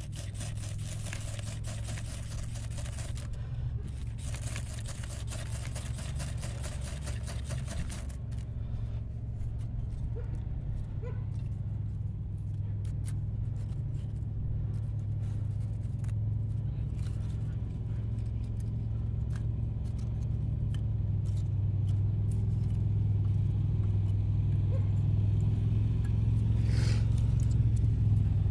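Cordless Milwaukee fan blowing air onto a stubborn wood fire: a rushing of air that stops about eight seconds in, over a low steady rumble that grows louder as the fire is fanned.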